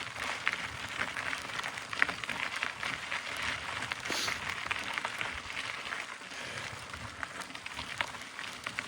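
Mountain bike tyres rolling up a dirt and gravel trail on a climb: a steady crackle of grit and small stones with many scattered clicks.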